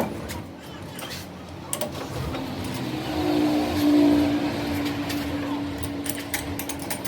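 A motor hums steadily, loudest in the middle, with scattered sharp metallic clicks and knocks.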